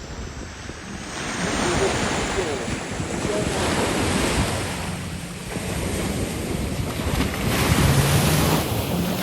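Ocean surf: waves breaking and washing up the shore, swelling about a second in, easing a little in the middle and rising again toward the end, with wind buffeting the microphone.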